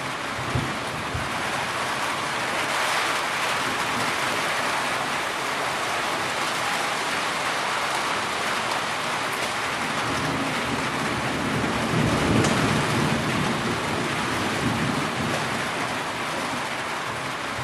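Heavy rain falling steadily, with a low rumble of thunder about twelve seconds in.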